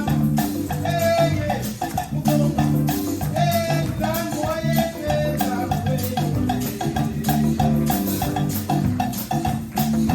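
Live upbeat band music, with drums and shakers keeping a steady, fast beat under a pitched melody line.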